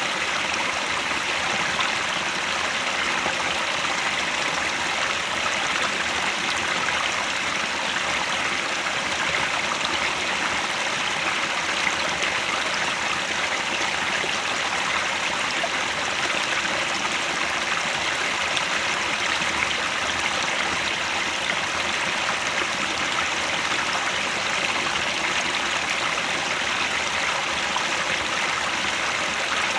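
A headwater mountain stream flowing, a steady rush of water.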